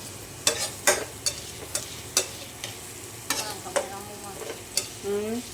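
Onion and garlic sizzling as they sauté in hot oil, with a cooking utensil stirring them and knocking against the pan about eight times at uneven intervals.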